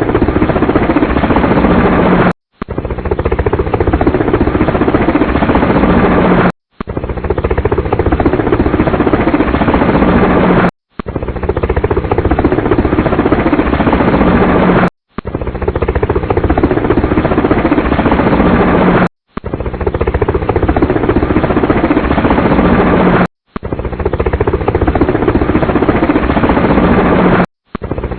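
Helicopter rotor and engine noise played as a short loop: it cuts out for a moment and starts again about every four seconds.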